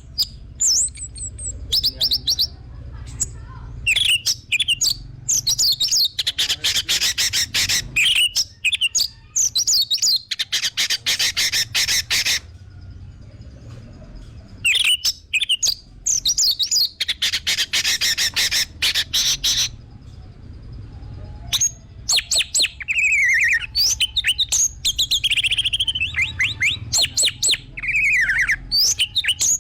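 Orange-headed thrush (anis merah) singing: long bouts of fast, repeated high notes and trills with short pauses between them, over a low steady hum.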